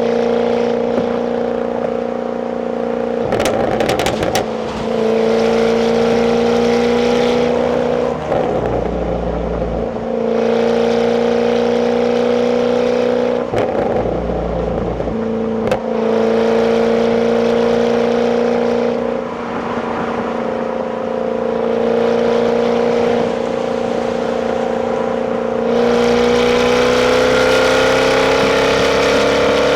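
Jaguar F-Type 5.0's supercharged V8 on its stock exhaust, running under way at a steady engine speed. Its note breaks three times into a short rougher stretch. It rises slowly in pitch over the last few seconds as the car accelerates.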